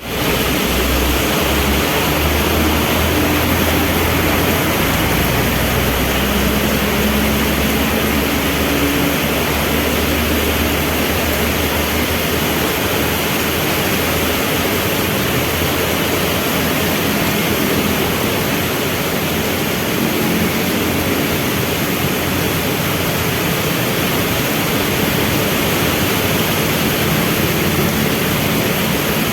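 Heavy rain pouring steadily, with the low rumble of vehicle engines waiting at a traffic light that eases off about halfway through.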